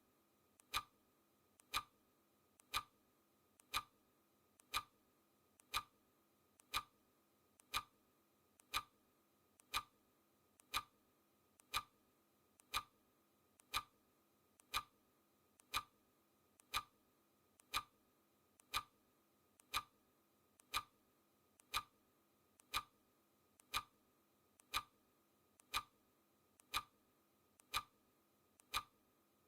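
Clock ticking, one sharp tick a second in a steady even rhythm, each tick led by a faint lighter click.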